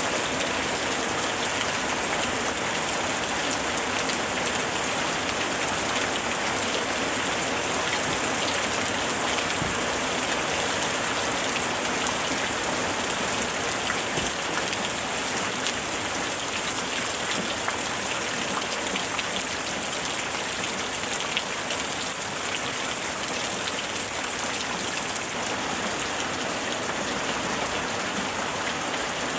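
Steady heavy rain falling and pattering on surfaces, with many individual drops ticking through the hiss.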